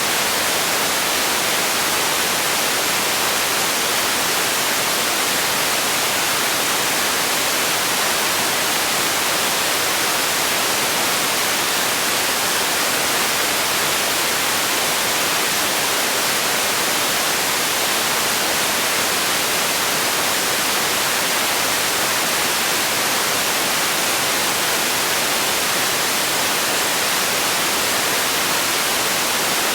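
Steady noise track for sleep: an even, unbroken hiss with most of its energy in the high frequencies and little bass.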